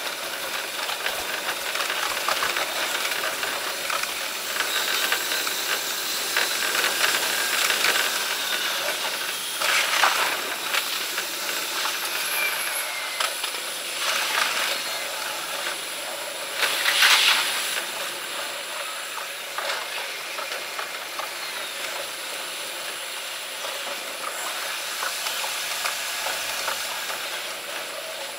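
Running noise from a Seibu Shinjuku Line electric train's cab, sped up fivefold so that the wheel-on-rail clatter and motor noise blur into a fast, hissing chatter. Two brief louder surges come about ten and seventeen seconds in.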